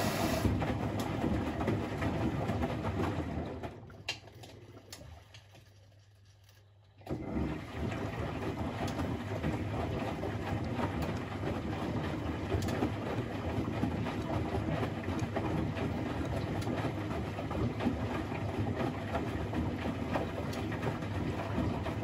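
Privileg 3001 S washing machine running, its gear motor turning the drum. The motor stops about three and a half seconds in, the machine is nearly quiet for about three seconds, then the drum starts again abruptly about seven seconds in. This is the stop-and-restart typical of a wash-cycle tumble.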